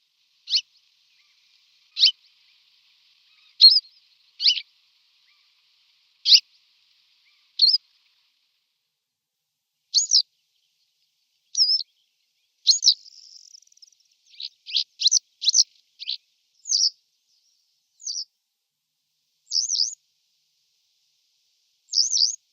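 A small songbird giving short, sharp high calls one at a time, a second or two apart, coming faster for a few seconds in the middle, over an otherwise silent background.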